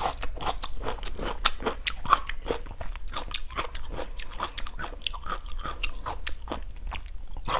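Crunchy chewing of stir-fried asparagus with oyster sauce: a fast, irregular run of crisp crunches as the crisp spears are bitten and chewed.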